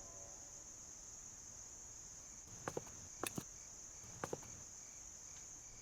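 Crickets chirring in a steady, high, unbroken drone. Three pairs of short clicks come in the middle.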